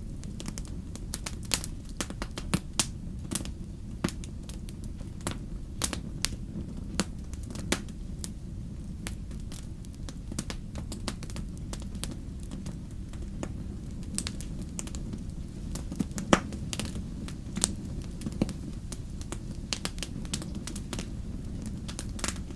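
Wood fire crackling in a fireplace: irregular sharp pops and snaps over a steady low rumble of burning, with one louder pop about sixteen seconds in.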